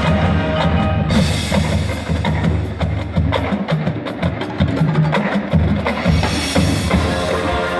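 Marching band playing, with held brass and wind chords under a busy drum and percussion passage of rapid sharp strokes that grows denser about a second in.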